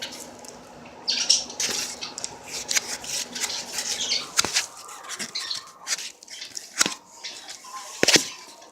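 Close-up eating sounds: chicken being chewed, with wet crackly mouth noises in irregular bursts for the first few seconds, then a few sharp clicks later on.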